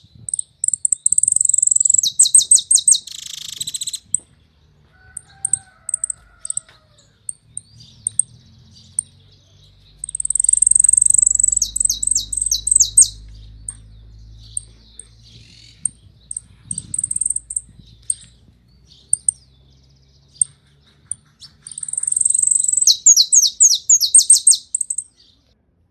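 A jilguero (Argentine finch) singing three phrases, around the start, about ten seconds in and near the end. Each phrase opens with a long high whistle that slides slightly down, then breaks into a fast run of sharp repeated notes. Short high chips are scattered between the phrases.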